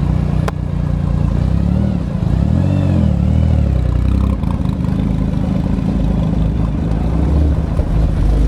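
A car engine running close by, with quick revs that rise and fall in pitch about two to three seconds in.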